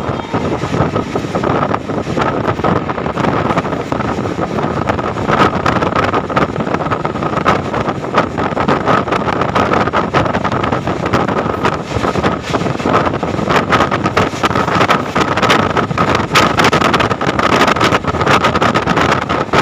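Passenger train coach running at speed: a steady rumble of wheels on the rails, with dense rattling clicks and a steady high whine over it.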